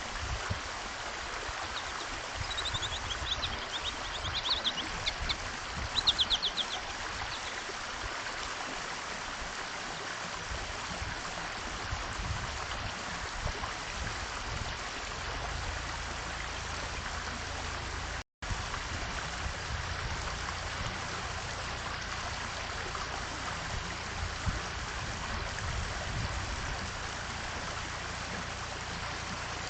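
Small birds chirping in a few quick trilled bursts a few seconds in, over a steady rushing background noise.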